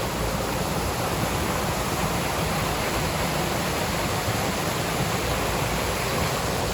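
Tall waterfall pouring: a steady, even rush of falling water.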